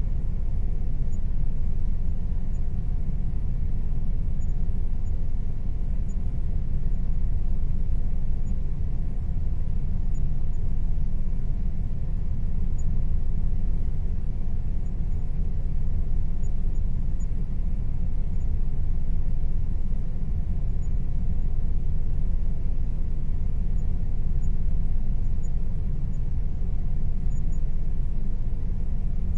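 Air conditioner running steadily: a constant low rumble with a faint hum above it.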